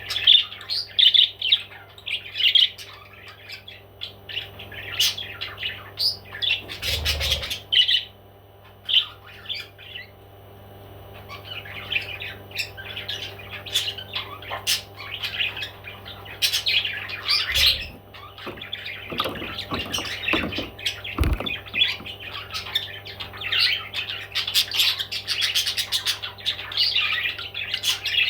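Parrots chirping and squawking in quick runs of short high calls, with a lull of a few seconds about a third of the way through. A few low thumps and a steady low hum sit underneath.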